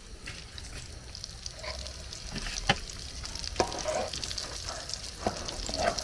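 Food sizzling as it fries in hot oil, with a steady high hiss and a few sharp knocks of a utensil against the pan.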